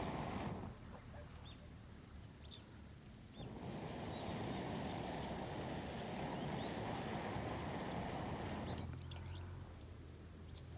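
A low rushing noise, like wind or movement on the microphone, that drops away twice. Small birds chirp in the lulls with short high calls.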